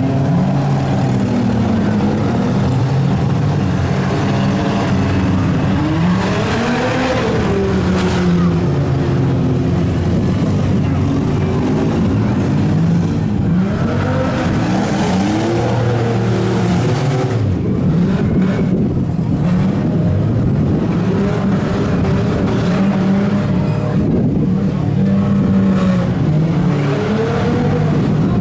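Several demolition derby vans, trucks and SUVs revving their engines at once, pitches rising and falling over one another, with a sharp hit about eight seconds in.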